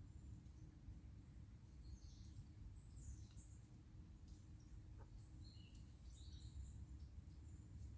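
Faint woodland birdsong: scattered high chirps and short calls from several small birds over a steady low rumble of background noise.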